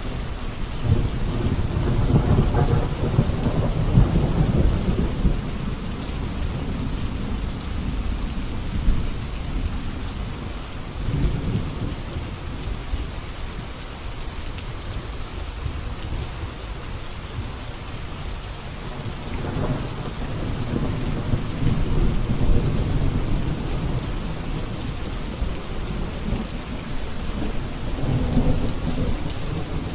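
Steady rain with rolling thunder: long low rumbles swell and fade several times, the strongest in the first few seconds and again around two-thirds of the way through.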